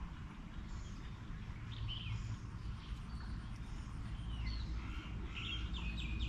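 Wild birds calling with scattered short chirps and whistles, ending in a quick run of about four sharp notes. Underneath is a steady low rumble.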